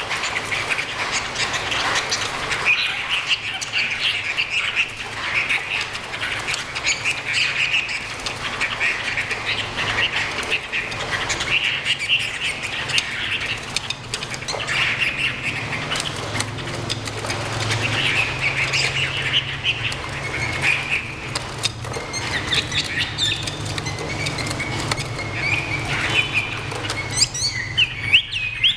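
Chinese hwamei singing and chattering without a break, a dense run of varied whistles and trills, with scattered sharp clicks. Two fighting hwamei are calling at each other in a trial face-off.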